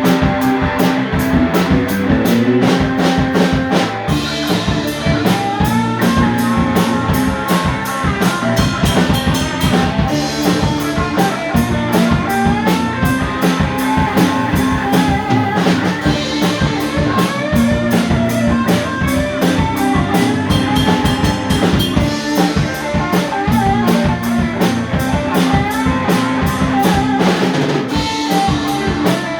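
Live rock band playing an instrumental break with no singing: drums keep a steady beat under bass and keyboards while a guitar plays a bending melodic line.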